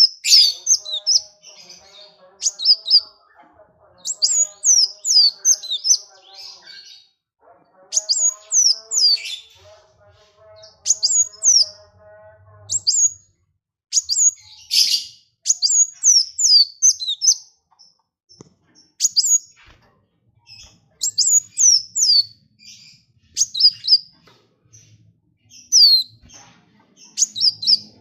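Small songbird singing in repeated bursts of very quick, high, sharply falling chirps, each burst a second or so long with short gaps between. A lower, steadier warbling call runs underneath for roughly the first half.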